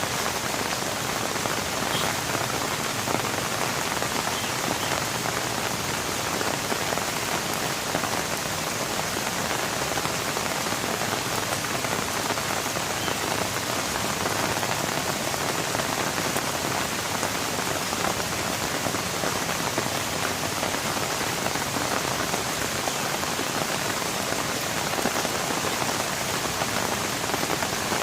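Steady rain falling, a dense, even patter of drops that holds level throughout, with no thunder.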